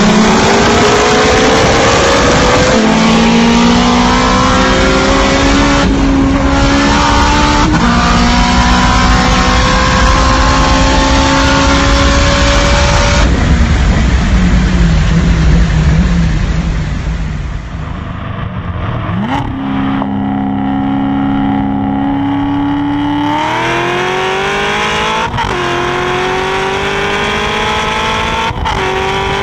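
Turbocharged K20 four-cylinder in an EG Civic, heard from inside the car at full throttle, its pitch climbing in each gear and dropping at each of several quick upshifts. After a cut, other race cars' engines are heard: a steadier note first, then another engine pulling hard and rising in pitch near the end.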